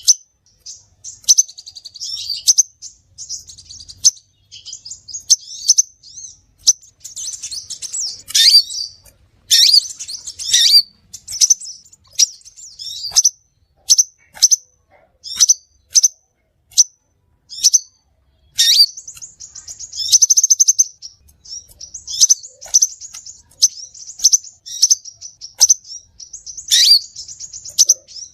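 Crimson sunbird calling: a steady series of sharp, high-pitched chirps, broken by denser twittering runs about eight and nineteen seconds in.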